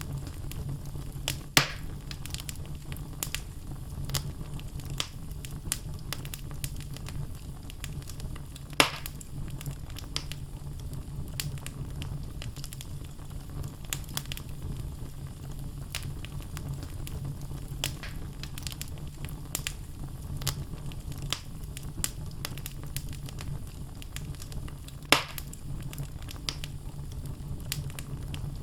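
Wood fire burning in a fireplace: a steady low rumble of flames with logs crackling throughout, and three louder pops, about a second and a half in, about nine seconds in, and near the end.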